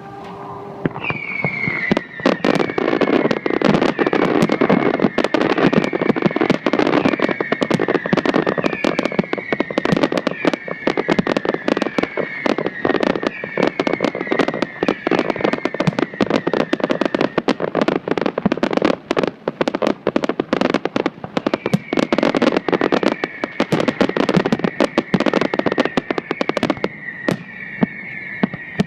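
Fireworks display in a dense barrage: rapid, continuous bangs and crackles with a repeated whistle that falls slightly in pitch about once a second. It builds in about two seconds in and eases off near the end.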